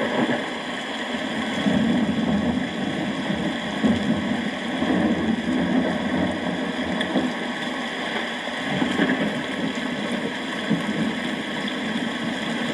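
Steady rain with a low, uneven rumble of thunder underneath, swelling and easing without any sharp cracks.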